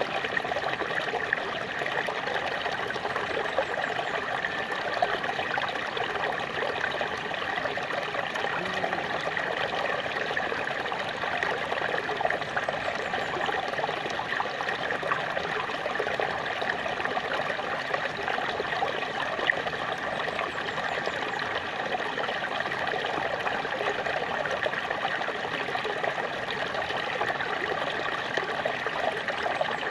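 Small waterfall: water falling and trickling steadily, an even rushing splash with small irregular spatters.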